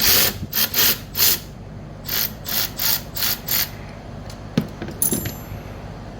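Hand socket ratchet clicking through two runs of short back-strokes, about three a second, loosening a 10 mm bolt. Near the end come a single click and a brief metallic clink.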